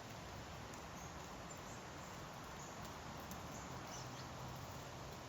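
Steady outdoor wind noise, with a few faint, short high chirps.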